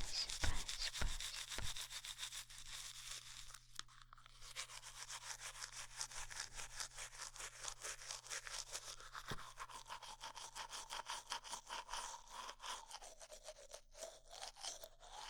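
A brush scrubbed quickly back and forth close up, about five bristly strokes a second, standing in for teeth being brushed clean. A few louder knocks come in the first two seconds.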